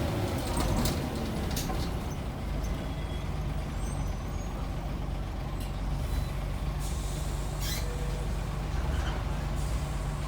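Scania N94UB single-decker bus's diesel engine running steadily, with a few short hisses of compressed air from the air brakes.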